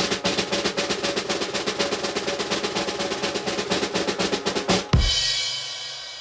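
Snare drum roll sound effect: a fast, even roll lasting about five seconds, ending in a loud final hit with bass drum and a cymbal crash that rings out and fades.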